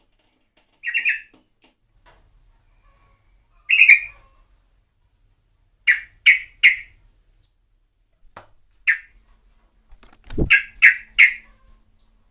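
Yellow-vented bulbul (trucukan) giving short, bubbly call phrases in separate bursts, some in quick runs of three notes. A low thump comes about ten seconds in.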